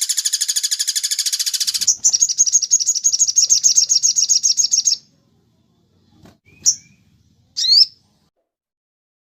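Songbird song: a fast trill of rapidly repeated high notes, changing about two seconds in to a higher, thinner trill that stops about five seconds in, followed by a few short separate chirps.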